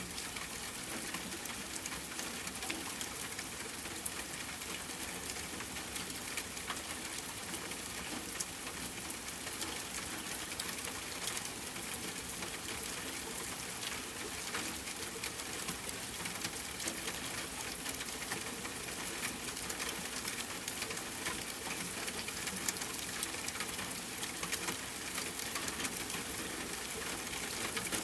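Steady rain falling: an even hiss of rain with frequent sharp ticks of single drops.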